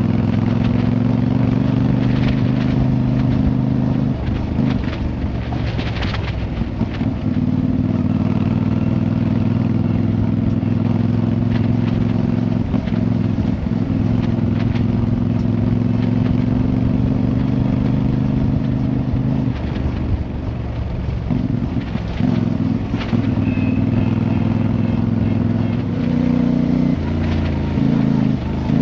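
Motorcycle engine running at fairly steady revs while riding, with a low road and wind rumble; the engine note shifts a few times.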